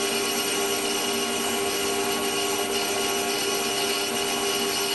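Metal-turning lathe running steadily, its motor and drive giving a constant whine of several held tones over a noise.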